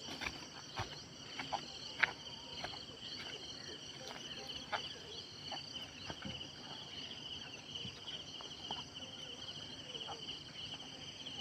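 Insects trilling steadily in a high, finely pulsing chorus, with scattered faint clicks and taps.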